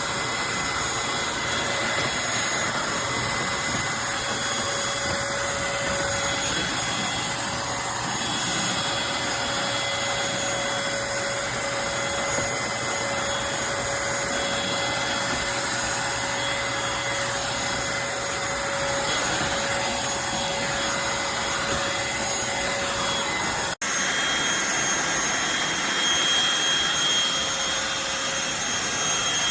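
Eureka Blaze stick vacuum's motor running steadily with an airy hiss and a steady whine. It breaks off for an instant near the end and carries straight on.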